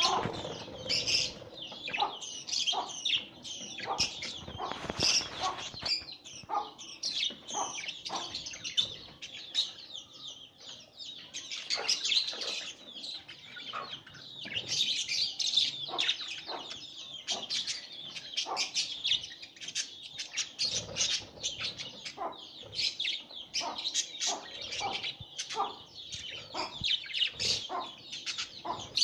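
Budgerigars chirping in a dense, continuous stream of short, high chirps, the chatter of parents feeding their chicks.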